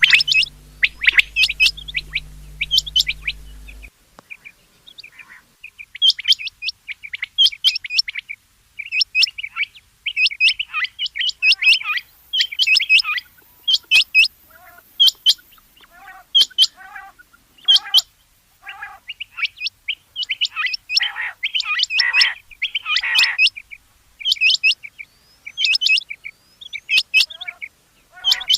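Rain quail calling: short, sharp, high notes repeated in quick clusters, again and again with brief gaps.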